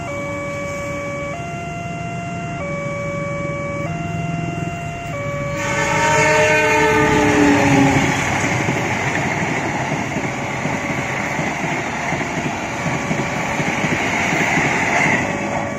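A railroad crossing warning alarm sounds, switching between two tones about every second and a quarter. About five and a half seconds in, the diesel locomotive of the Argo Parahyangan passenger train sounds its horn as it passes, the pitch falling. The rumble and clatter of the passing carriages follows and fades near the end.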